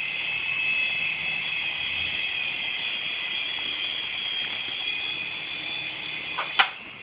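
Toy helicopter's small electric motor and rotor running with a steady high-pitched whine. A sharp click comes near the end, and the sound then falls away.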